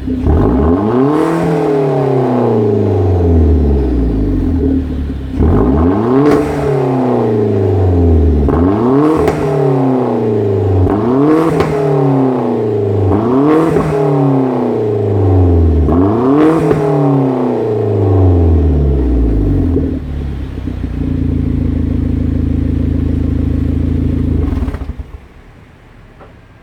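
Hyundai Genesis Coupe 2.0T's turbocharged four-cylinder engine and exhaust being revved six times, each rev rising quickly and falling back, then settling into a steady idle before stopping abruptly near the end.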